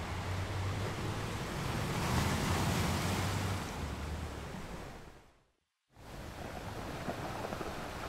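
Ocean surf washing onto a beach, with wind on the microphone; the wash swells about two seconds in, then fades out to silence for about half a second just after the five-second mark and comes back.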